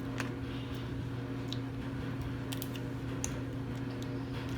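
Clothes dryer running with a steady low hum, and a few faint small clicks over it.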